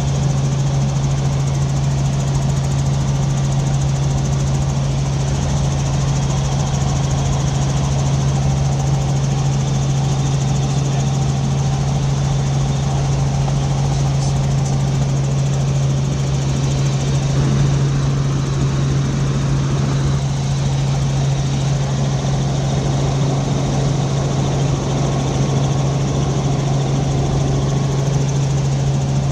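Helicopter in flight heard from inside the cabin: a steady, loud engine and rotor drone with a strong constant low hum.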